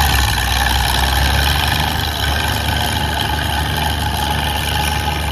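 Oliver 77 tractor engine running steadily under load as it pulls the weight sled down the track.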